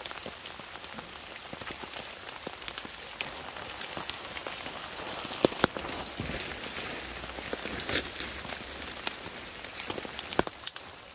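Rain falling on a tarp shelter and wet leaf litter: a steady patter, with a few much louder drops striking now and then.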